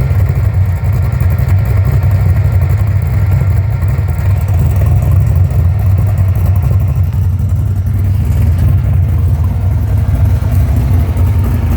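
LS V8 engine in a 1950 Chevrolet pickup running steadily with a deep, even exhaust note.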